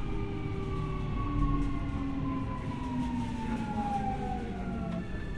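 Keio 1000 series train's traction motors and VVVF inverter whining in a falling pitch as the train brakes, with running rumble underneath. About five seconds in, the falling tones give way to a steady low inverter tone as the train nears its stop.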